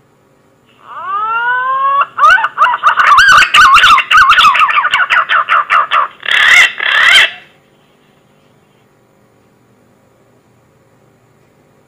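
Green pigeon (punai) song played as a hunting lure call. It opens with a rising whistle, runs into a fast series of wavering whistled notes, and ends with two louder notes, stopping well before the end.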